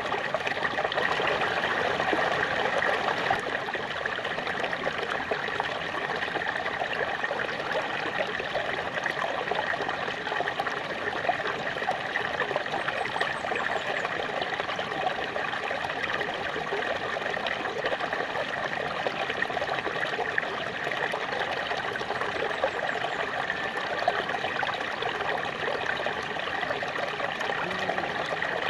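Small waterfall: water splashing and trickling steadily over rocks.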